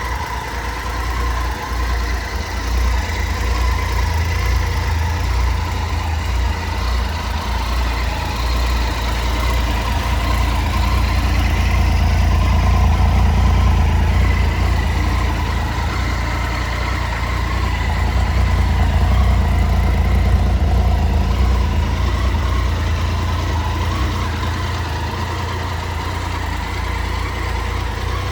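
2011 Triumph Tiger 800's three-cylinder engine idling steadily.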